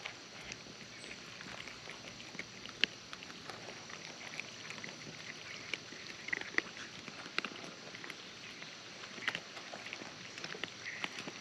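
Cats eating: irregular small clicks and smacks of chewing and licking.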